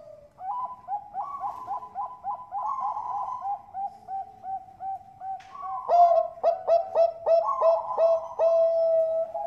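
Bangkok-type perkutut (zebra dove) singing a run of short, quick coos. About six seconds in it turns to louder, sharper coos, about three a second, that end in a longer held note.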